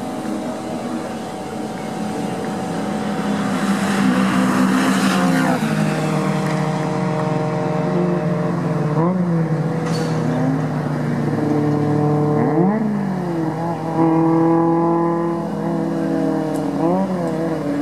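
Touring race car engine running hard at high revs, with several gear changes that make the pitch drop and climb again.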